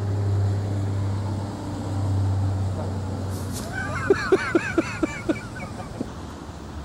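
A steady low hum that dies away about three seconds in, followed by a quick run of about six short, wavering pitched sounds, roughly four a second.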